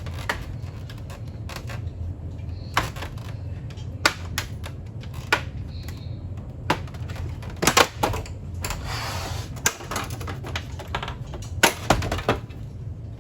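Irregular sharp clicks and knocks of small metal and plastic parts and hand tools being handled while a coffee machine is taken apart, with a brief hiss about nine seconds in, over a low steady hum.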